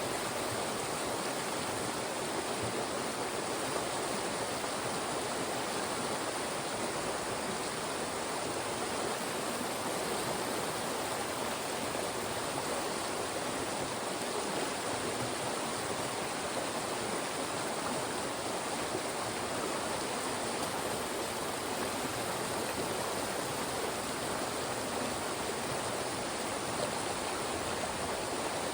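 A fast mountain stream rushing steadily over and between rocks, a constant full splashing wash of water.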